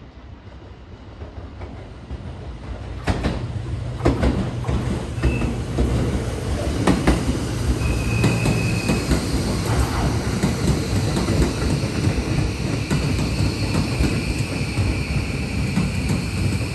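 Tokyo Metro 13000 series electric train approaching and passing close by, getting louder over the first few seconds. Its wheels clack over rail joints as the cars go past, with a steady high whine joining in over the second half.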